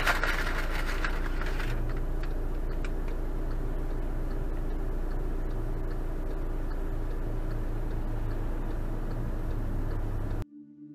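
A vehicle engine running steadily with a low hum, under a rush of hiss for the first couple of seconds and faint, evenly spaced ticking after that. The sound cuts off suddenly just before the end.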